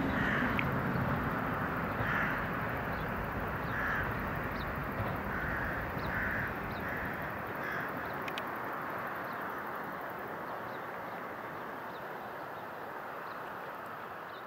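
Electric limited express train running away into the distance, its rumble fading steadily. A crow caws about six times over the first eight seconds.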